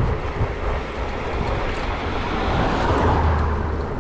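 Wind rushing over the microphone and road noise while riding a bicycle along a road, a steady low rumble that swells briefly near the end.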